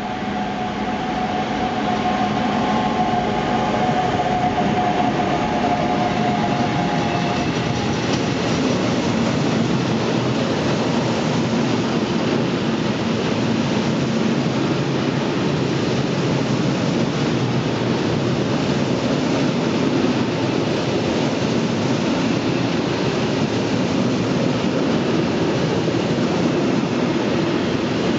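An electric goods train passing close by on the rails. The approach builds over the first few seconds, with a high whine for the first several seconds. A long rake of loaded flat wagons then rolls past in a steady rumble and clatter of wheels on the track.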